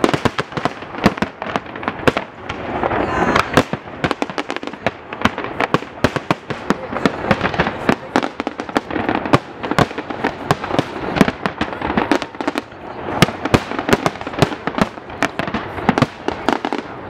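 Aerial fireworks shells bursting in a dense barrage: sharp bangs several times a second, overlapping one another, with crackling and rumble filling the gaps.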